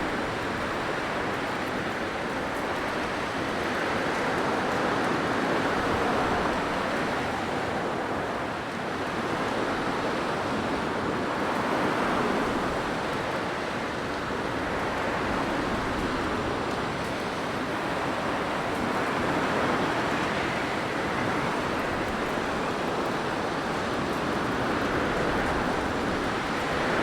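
Blizzard wind blowing steadily, a dense rushing noise that swells into gusts and eases every few seconds.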